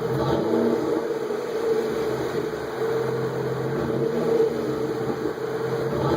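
Exhaust of a 2006 Pontiac G6 GTP's 3.9-litre V6 idling steadily, through a straight pipe in place of the resonator with the factory catalytic converters and muffler kept.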